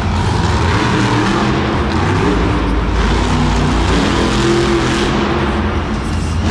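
Monster truck engine running loud at high revs, its pitch rising around the middle.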